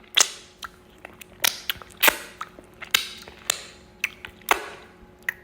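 Eating sounds: a run of sharp wet smacks and clicks from a mouthful of okra soup and potato swallow, irregular, about one to two a second.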